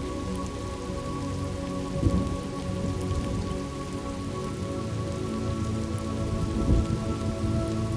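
Thunderstorm ambience: steady rain falling, with a low thunder rumble swelling twice.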